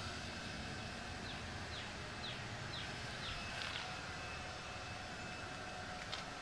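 Steady outdoor background noise with a small bird's short, falling chirps repeated about twice a second, starting a little over a second in and stopping about four seconds in.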